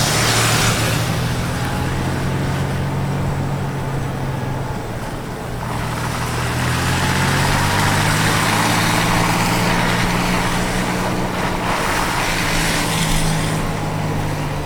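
Motor vehicle engine running steadily, its pitch shifting a couple of times, with a hiss that swells in the middle.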